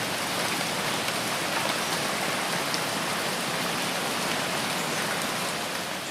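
Rain falling steadily: a dense, even hiss with scattered faint drop taps, beginning to fade out near the end.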